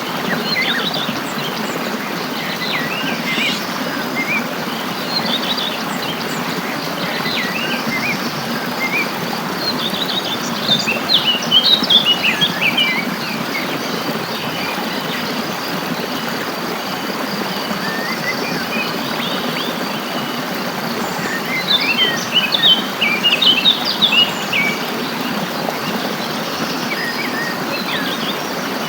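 Songbirds chirping and twittering over the steady rush of a flowing stream, the birds growing busier in two short bouts, about a third of the way in and again near three-quarters through.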